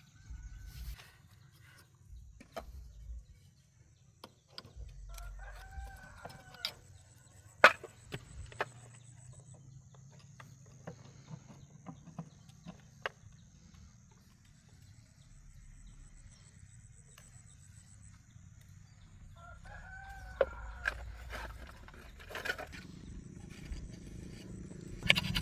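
A rooster crowing twice, once about five seconds in and again around twenty seconds, with scattered sharp clicks and knocks between the crows.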